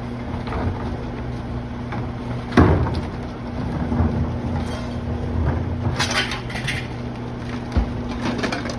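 Garbage truck's diesel engine running with a steady low hum. A loud thump comes about two and a half seconds in, and a short crash about six seconds in.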